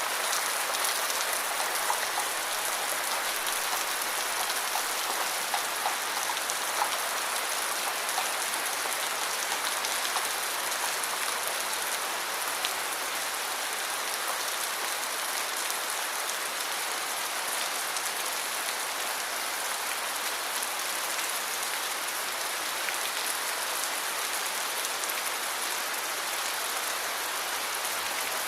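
Steady rain falling, an even hiss of drops with a few louder individual drips in the first several seconds.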